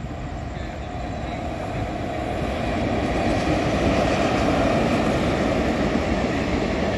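Express train approaching and running past at speed: a rushing rumble of wheels on rail that builds over the first three seconds, then stays loud and steady.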